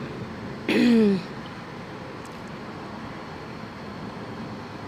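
A short voiced hum from a person, falling in pitch, about a second in, over a steady background hiss.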